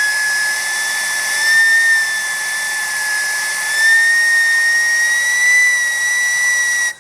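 Homemade gas turbine fired by wood-fire gas, running with a loud, steady high-pitched whine over a rushing hiss, its pitch creeping slowly upward. The sound cuts off abruptly at the very end.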